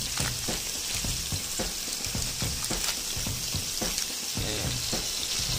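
Sliced carrots, onion and garlic sautéing in oil in a pot: a steady sizzle with many small crackles.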